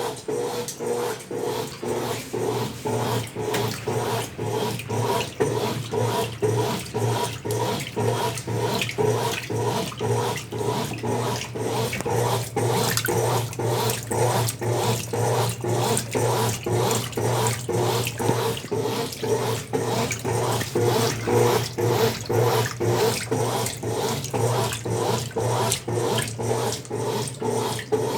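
Consul Facilite 10 kg washing machine in its wash stage, its motor and agitator churning the load in water with a steady hum that surges about twice a second. The machine is running on test after a mechanical overhaul.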